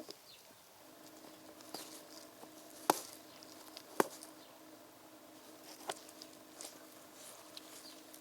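Scattered light clicks and taps, with two sharper clicks about three and four seconds in, over a faint steady hum.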